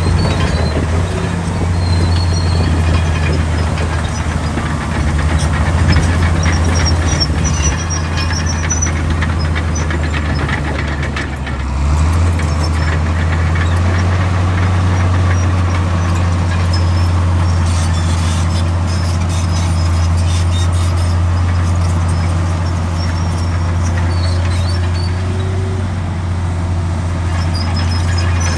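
Heavy diesel earthmoving machinery running steadily with a low drone; the engine note shifts upward about twelve seconds in. Short high squeals come now and then.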